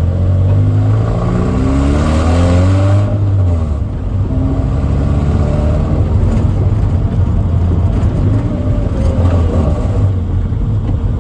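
Toyota MR2 Spyder's 1.8-litre four-cylinder engine heard from inside the cabin, accelerating through the gears. The engine note rises, drops at a gear change about three seconds in, and climbs again.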